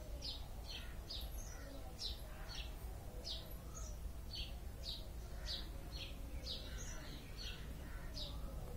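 Small birds chirping: short, high chirps that slide downward, often in pairs, repeating two or three times a second over a low steady background noise.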